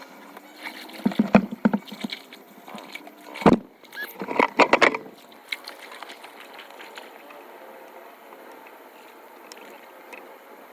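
Hand tools knocking and clattering while debris is cleared from a clogged storm drain: a few sharp knocks, the loudest about three and a half seconds in, then a faint steady rush of water.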